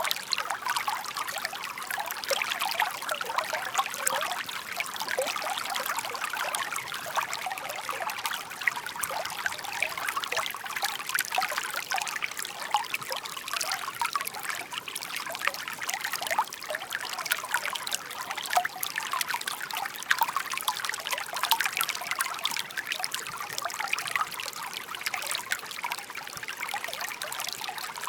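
Shallow stream babbling and trickling over stones: a steady water burble with dense small splashes and gurgles.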